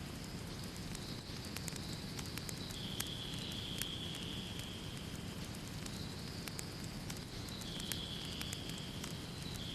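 Fireplace fire crackling: irregular sharp pops and snaps over a steady low rush. A faint high steady tone runs through it, stepping between two pitches every few seconds.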